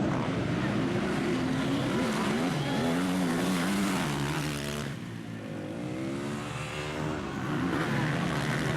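Motocross bike engines racing, revving up and down with gear changes. About halfway through the sound dips briefly, then a bike accelerates with rising pitch.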